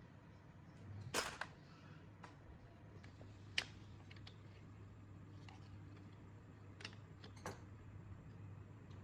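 A few sharp, short clicks and knocks of hard objects being handled, the strongest about a second in, in the middle and near the end, with fainter ticks between, over a low steady hum.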